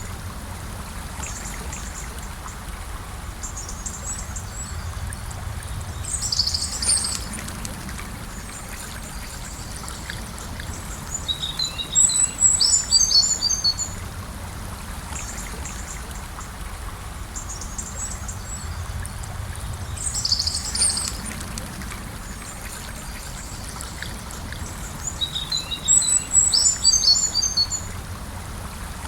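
Gentle river flowing steadily, with a songbird singing short phrases of high chirping notes four times, some of them quick falling runs.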